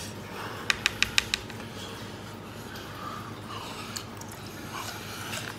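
A person eating a chicken foot marinated in vinegar with Laba garlic. About a second in there is a quick run of about five sharp clicks, then soft biting and chewing sounds.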